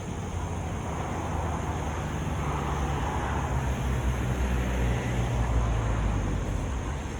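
Motor vehicle engine running steadily at low revs amid road traffic noise, with a swell of passing-vehicle noise a few seconds in.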